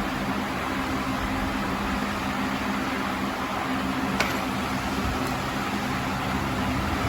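Steady machine hum with a hiss over it, unchanging throughout, and one sharp click about four seconds in.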